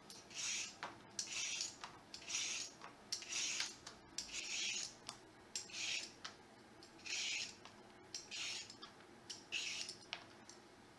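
A kitchen tool scraping along a vegetable in repeated strokes, about one a second, with light clicks between the strokes.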